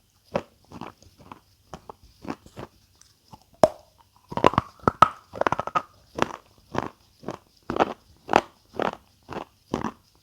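Close-miked chewing of crunchy food at about two chews a second. A little over a third of the way in there is one sharp crack, followed by about a second and a half of loud, dense crunching, and then the steady chewing resumes.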